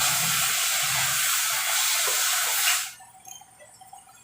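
A pressurised jet hissing loudly and steadily, cutting off suddenly about three seconds in.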